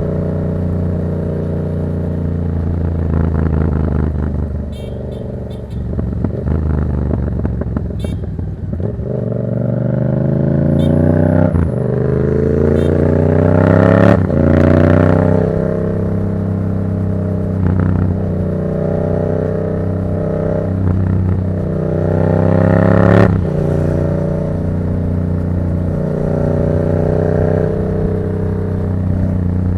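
Yamaha MT-07's 689 cc parallel-twin engine running through an aftermarket Black Widow exhaust on the move: steady cruising, a brief roll-off about five seconds in, then a long rising pull up through the revs. A few sharp cracks come as the revs drop, twice near the middle and once later, before it settles back to a steady cruise.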